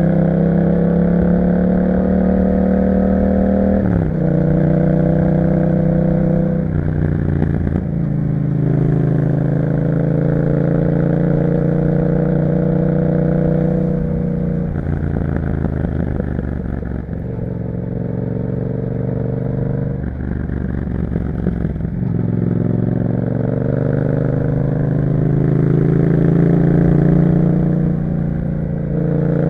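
Yamaha MT-07's 689 cc parallel-twin engine through an Akrapovic exhaust, heard while riding. The engine note climbs slowly under throttle and drops sharply several times with gear changes and easing off the throttle.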